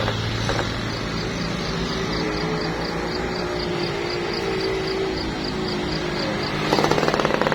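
Vehicle engine and road noise while driving. Near the end a louder, fast, even rattling starts.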